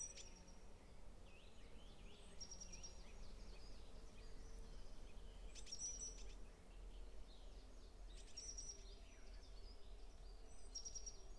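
Faint forest birdsong: short, high, thin calls repeating every two to three seconds, with softer chirps between them, over a low steady rumble.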